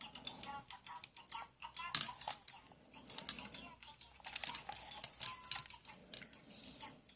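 Plastic toy tools being handled, with irregular quick clicks and taps.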